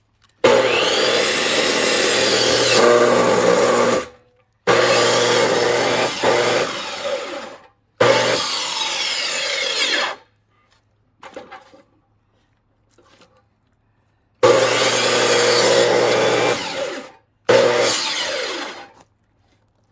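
Chainsaw cutting into a firewood log in five bursts of one and a half to three and a half seconds each. Each burst starts and stops abruptly, with short gaps between them.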